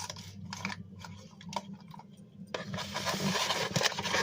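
Scattered clicks and light knocks of food and utensils being handled in a takeout container, then a longer rustling, crinkling noise starting a little over halfway through, over a steady low hum.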